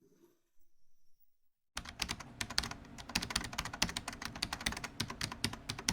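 Rapid, irregular clicking and tapping that starts suddenly about two seconds in.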